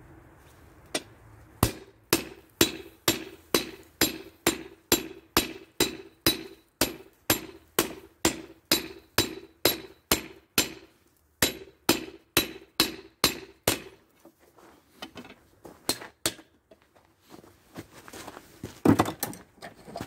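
Hand hammer striking spring steel on an anvil while forging a knife blade: a steady run of blows at about two and a half a second, each leaving a ringing tone. After about twelve seconds the hammering stops, then come a few lighter knocks and a loud clatter near the end.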